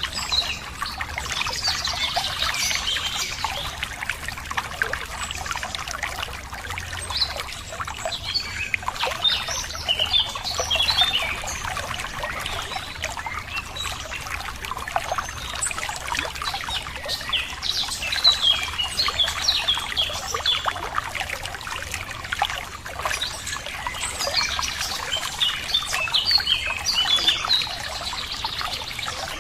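Running water trickling steadily, with birds chirping over it in several short spells.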